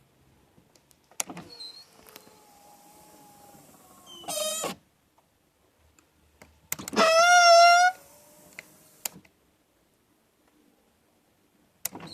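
Car power window motor running the glass, with clicks where it starts and stops and the window regulator squeaking. There is a short squeal about four seconds in and a louder, second-long squeal about seven seconds in.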